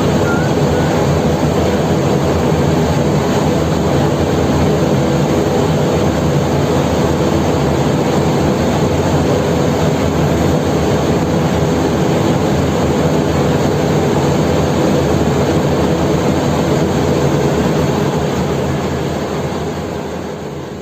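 Heavy engine running steadily at constant speed, a loud even drone with a hum of several steady tones; it fades out near the end.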